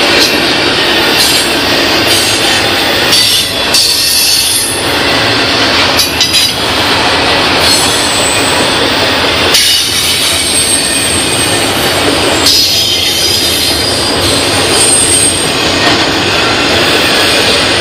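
Double-stack intermodal container train rolling past at close range: a steady loud rumble and rattle of steel wheels on rail, with brief high-pitched wheel squeals now and then.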